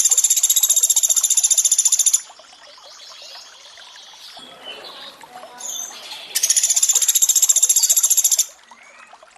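Sunda pygmy woodpecker (pelatuk beras) giving rapid, high, rattling trills: one about two seconds long at the start and another about six seconds in. Between them, trickling water is heard.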